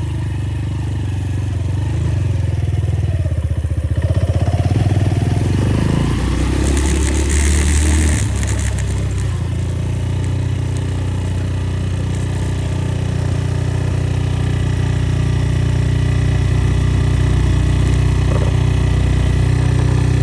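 Enduro motorcycle engine running, its pitch rising and falling in the first half with a brief hiss about seven seconds in. It then settles into a steady, even run.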